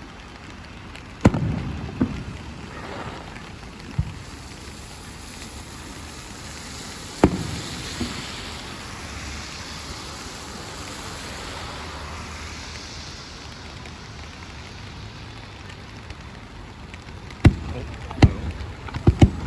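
Rain falling steadily, with the sharp bangs of fireworks bursting: a few single bangs spaced out over the first seven seconds, then a quick run of bangs near the end.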